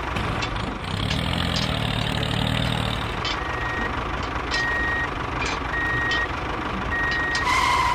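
A truck's engine running while its reversing alarm beeps four times, about one beep every second and a bit.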